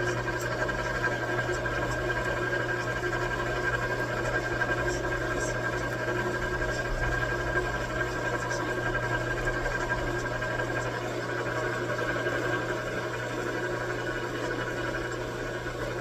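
Metal lathe running steadily with a constant low hum and a thin high whine that fades about eleven seconds in.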